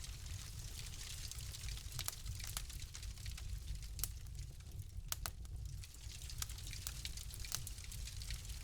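Wood fire crackling in a fireplace: irregular sharp pops and snaps over a soft hiss and a steady low rumble.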